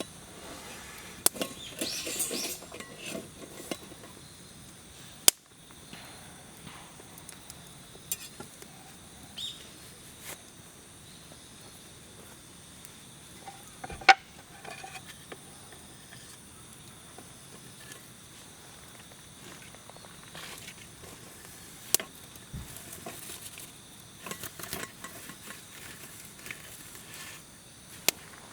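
Wood fire burning in a fire pit, with a steady low hiss and sharp pops that crackle out at irregular intervals every few seconds.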